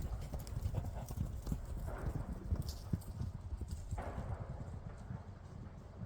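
Hoofbeats of a herd of horses running, many overlapping irregular thuds on the ground.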